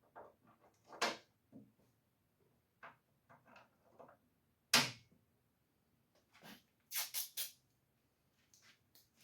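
Scattered knocks and light clatter of hands working with parts and tools: a sharp knock about a second in, the loudest knock nearly five seconds in, and three quick knocks around seven seconds.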